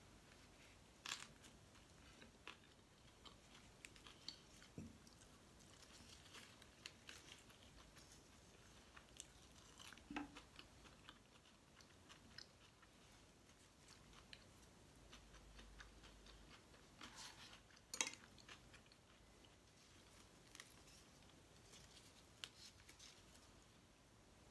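Faint close-up chewing of a roast duck pancake wrap: soft mouth clicks and small crunches, with a few sharper clicks, the loudest about two-thirds of the way in.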